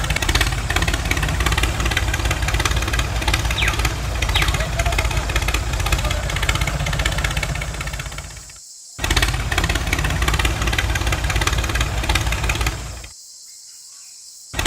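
Small electric motor and gears of a homemade toy tractor running with a fast, rattling buzz. It cuts out briefly about two-thirds of the way through and again near the end.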